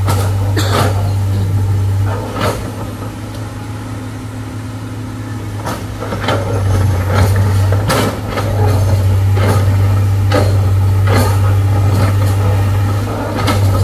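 Heavy diesel engine running with a steady low drone that eases off for a few seconds about two seconds in and then picks up again, with scattered sharp clanks and knocks.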